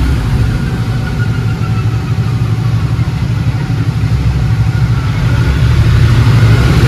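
Triumph Thunderbird's big parallel-twin engine running with its rear wheel on a dyno roller. It eases down from a rev in the first seconds and builds up again toward the end.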